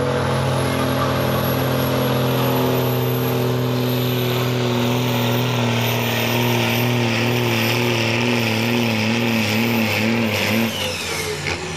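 Cummins diesel in a 1976 Chevy pickup running hard under load as the truck pulls the sled down the track. The engine's pitch wobbles up and down in the last few seconds, then it backs off just before the end as the pull finishes.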